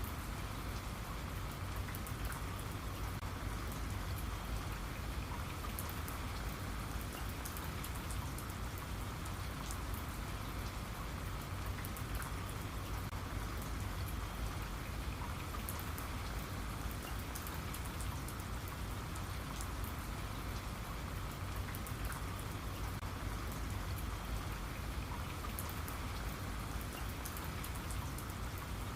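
Steady rain falling, with a constant patter of drops striking a surface and a low rumble underneath.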